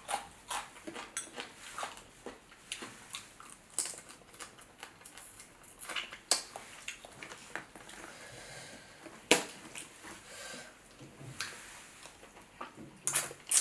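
Crab shells being cracked and picked apart by hand while eating a seafood boil: scattered clicks and cracks, with one sharp crack about nine seconds in and a few more near the end, between quieter chewing.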